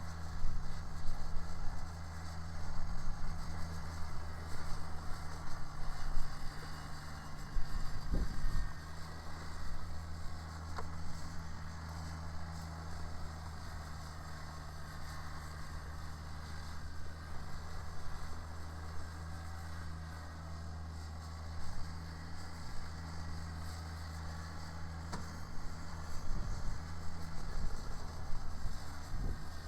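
Kubota BX sub-compact tractor's three-cylinder diesel engine running steadily under the load of its rear-mounted snow blower, a constant low hum. An uneven rushing noise rises and falls over it in roughly the first eight seconds.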